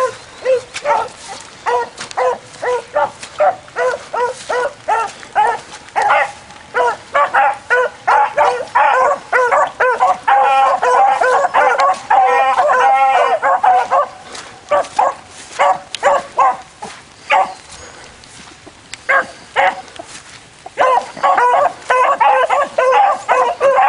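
A small pack of beagles baying on a trail, their short pitched cries overlapping in a rapid chorus. About two-thirds of the way through the cry thins to a few scattered barks and briefly stops, then the full chorus starts up again near the end.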